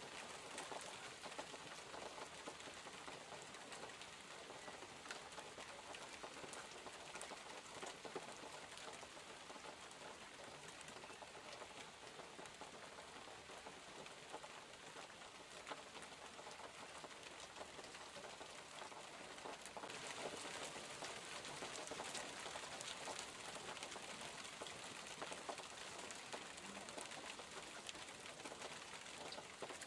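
Steady rain falling, with the patter of many separate drops. About two-thirds of the way through it turns a little louder and brighter.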